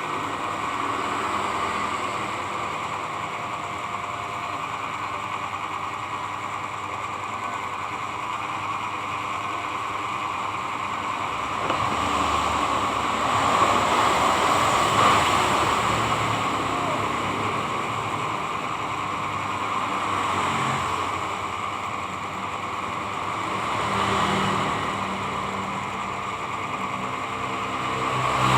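Electric hair clipper running steadily with a freshly sharpened blade being tested, its buzz swelling louder several times.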